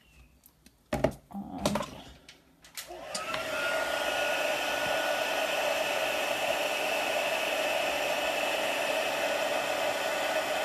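A couple of knocks, then an embossing heat tool switches on about three seconds in. Its fan spins up with a rising whine and then blows steadily, melting the embossing powder.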